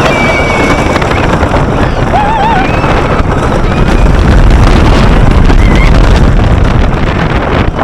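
Wind rushing over the microphone and the train rumbling along the track of Kingdom Coaster, a wooden roller coaster, heard from a seat on the moving train. The low rumble swells about four seconds in.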